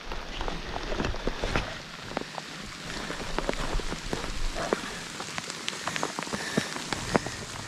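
Heavy rain falling and pattering on surfaces, a steady hiss dotted with many separate drop hits.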